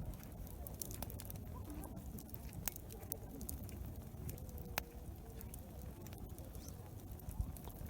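Wood campfire crackling, with irregular sharp pops and snaps, over a low background murmur of a busy campsite.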